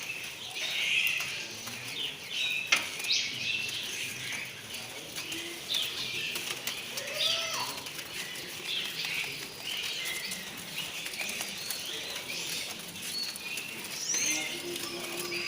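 Many small songbirds chirping and whistling over one another, short overlapping calls all through, with one sharp click near the start.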